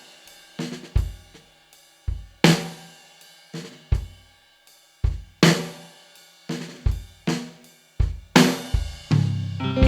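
Drum break in a song: a drum kit playing separate kick, snare and cymbal hits, about two a second, each ringing out, over faint held instrument notes. A low bass note and the full band come back in at the very end.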